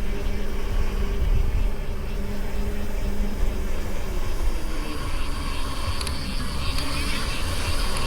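Mountain bike riding down a dirt trail: a steady rumble of tyres and wind on the camera microphone.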